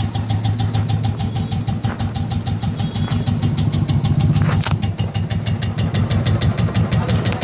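Royal Enfield single-cylinder engine idling with a rapid, even 'tik tik' ticking over its steady hum. The uploader puts the tick down to the decompressor gear and not to the tappets, and calls it not a big issue.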